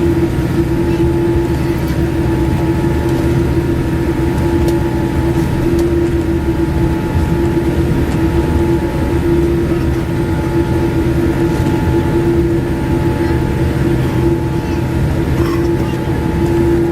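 Steady vehicle cabin drone: a continuous low rumble with a constant humming tone running through it.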